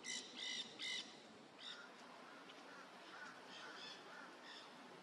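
Nanday parakeets calling from the trees: three harsh squawks close together in the first second, then fainter calls from others through the rest.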